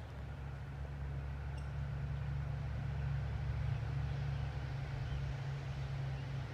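A low, steady mechanical hum, swelling slightly in the middle and easing a little near the end.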